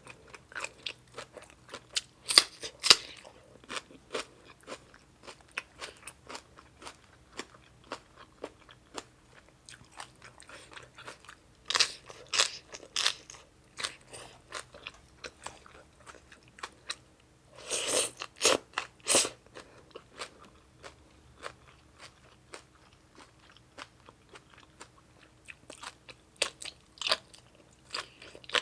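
Close-up chewing and crunching of a seafood papaya salad with crunchy squid tentacles, a steady run of small mouth clicks broken by loud clusters of crunchy bites about four times.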